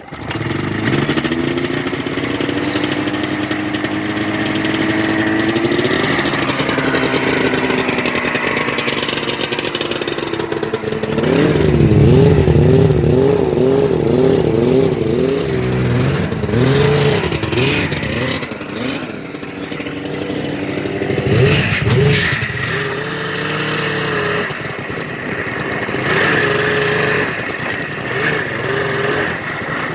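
A 1997 Yamaha VMAX 600 snowmobile's two-stroke three-cylinder engine catches on a cold start, running through a muffler with holes in it. Its pitch creeps up over the first few seconds. Then the throttle is blipped again and again, revving up and down about twice a second, and after that it runs with occasional short revs.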